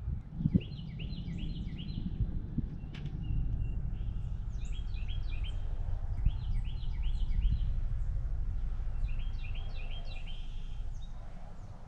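Small songbirds at a seed feeder calling in short bouts of quick repeated chirps, about four bouts, over a steady low outdoor rumble.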